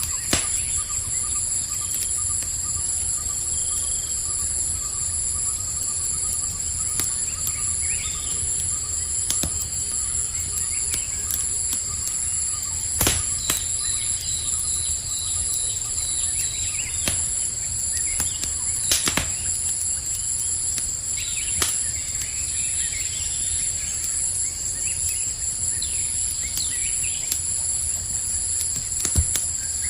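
Campfire crackling, with sharp pops here and there, over a steady high chirring of night insects such as crickets and a few bird chirps.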